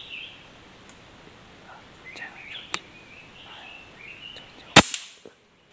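Small birds chirping, then a single sharp, loud crack of a PCP air rifle shot near the end.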